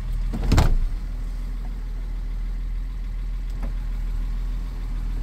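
A 1972 Mercedes-Benz 280SE's 2.8-litre six-cylinder engine idling steadily, heard from inside the cabin. A single sharp knock comes about half a second in, and a faint click follows near the end.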